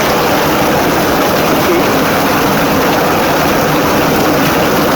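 Steady rushing noise of water flowing in a small spring-fed stream.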